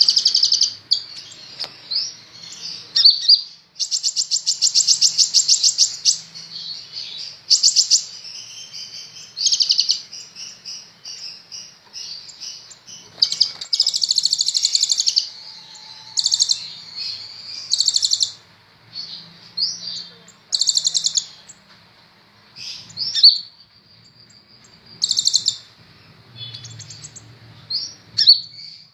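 A kolibri ninja sunbird singing: sharp high chirps and rapid buzzy trills, delivered in repeated bursts with short pauses between them.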